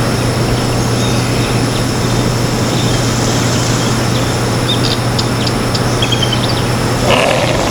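Steady outdoor noise with a constant low hum, and a few short, high bird chirps with a brief trill from about halfway in.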